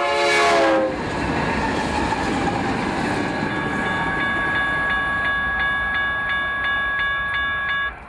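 A passing train's horn chord drops in pitch as it goes by close in the first second, then gives way to the loud rumble of the train rolling past. From about three and a half seconds a bell rings steadily at about two strikes a second, like a grade-crossing signal. Everything cuts off suddenly near the end.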